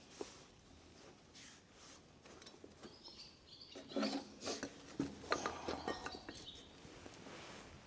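Farrier's metal tools clinking and scraping, a cluster of light knocks and rubs in the middle.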